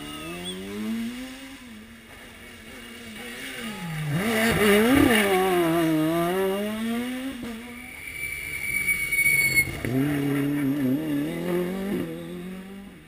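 Rally car engine passing at speed, revs rising and falling with gear changes and lifts, loudest about five seconds in; engine sound comes up again near the end.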